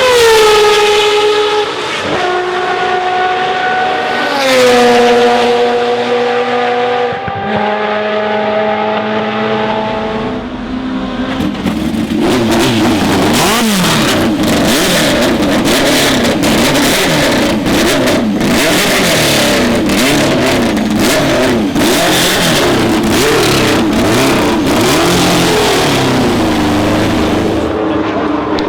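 Historic racing car engines at full volume. For the first ten seconds or so, one engine's note drops in steps, as in downshifting under braking. After that, several engines run together, their pitches wavering and crossing, with sharp cracks among them. Near the end a single engine note holds steady, then rises.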